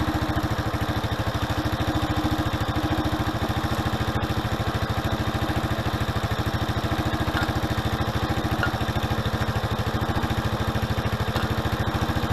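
Suzuki Address V125G scooter's single-cylinder four-stroke engine idling steadily through its refinished muffler, a fast even run of exhaust pulses.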